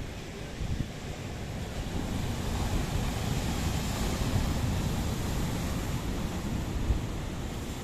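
Sea waves breaking and washing on the shore, swelling about two seconds in, with wind buffeting the microphone.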